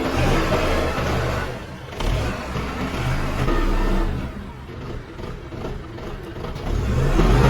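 Isuzu diesel engine of a 5-ton forklift running and being revved, its speed rising and falling. It eases off in the middle and builds up again near the end.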